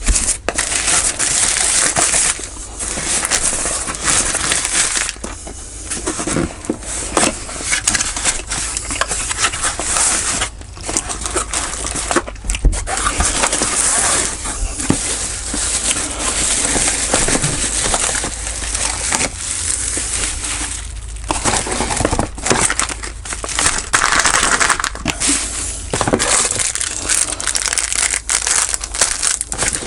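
Packaging being crumpled, torn and rustled close by, a loud irregular crinkling with many small crackles as a parcel is unwrapped.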